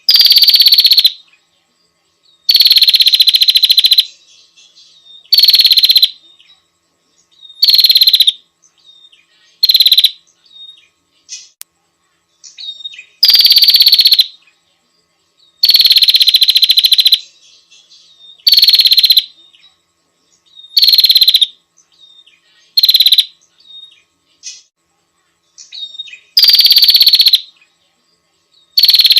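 Female prinia (prenjak) calls played as a lure to draw in males: loud, rapid trilled calls about a second long, each starting a little higher and settling, repeated every two to three seconds, with faint short chirps between them.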